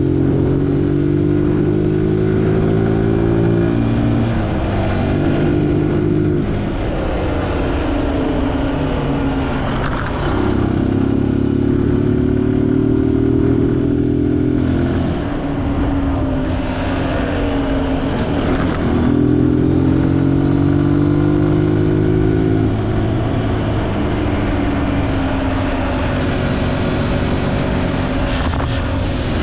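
Zontes G1 125 single-cylinder motorcycle engine running on the move, its pitch rising and easing off in stretches of a few seconds as the throttle and gears change. A steady hiss of tyres on wet asphalt runs under it.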